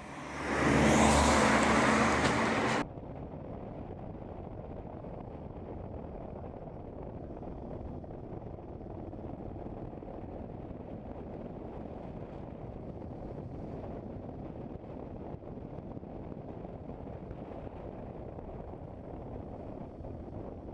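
Motorcycle riding along the road: engine and wind noise, loud and full at first, then dropping abruptly about three seconds in to a steady, muffled rumble.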